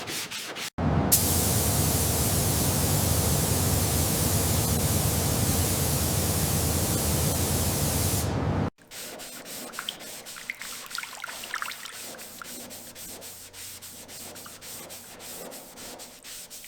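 Sanding by hand in quick rhythmic strokes, about four or five a second. After a sudden cut comes about eight seconds of loud, steady spraying hiss that stops abruptly. Then quieter rhythmic sanding or rubbing strokes resume.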